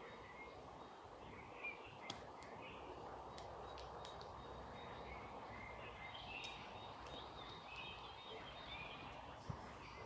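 Faint chirps and calls of songbirds over a low, steady background rumble, with a few sharp clicks, loudest near the end.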